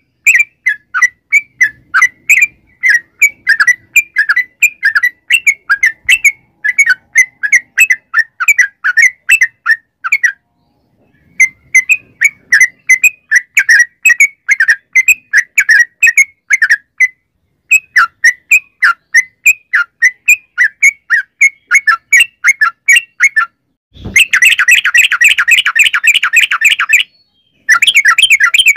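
Yellow-vented bulbul (trucukan) singing a long, rapid rolling song: fast runs of bubbling chirps in bursts of a few seconds, broken by short pauses. In the last few seconds the song turns into a denser, louder, almost continuous chatter.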